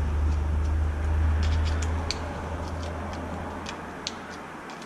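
Light, scattered clicks and ticks of small metal parts and tools as a tight bearing is worked off an RC truck's differential by hand, over a low steady hum that fades away after about two seconds.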